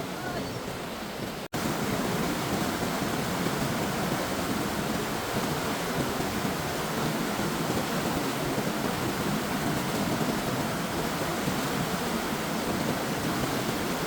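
Steady rushing of fast-flowing floodwater. It cuts out for an instant about one and a half seconds in, then comes back a little louder and continues evenly.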